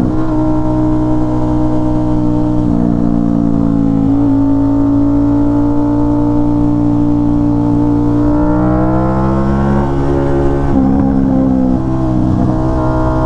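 Aprilia RS660's parallel-twin engine through an SC Project S1 full titanium exhaust, heard while riding. The engine note steps in pitch a couple of times, climbs slowly over several seconds, then drops again near the end.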